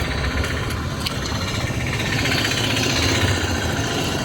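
A motor vehicle engine running steadily close by, growing a little louder through the middle.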